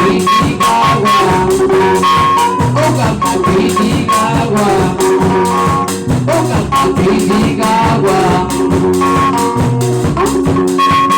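Live band music with a fast, steady percussion beat under sustained pitched instrument lines.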